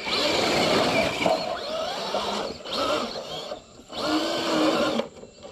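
Electric motor and geared drivetrain of a 6x6 RC crawler truck whining under throttle, the pitch rising and falling as it drives, cutting out briefly about three and a half seconds in and again near the end.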